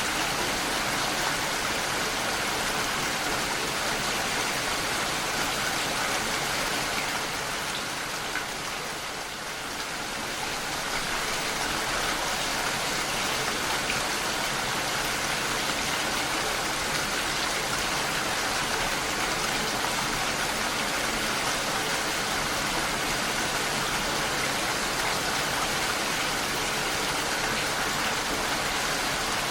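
Steady rain falling, a dense even hiss that dips briefly about a third of the way in.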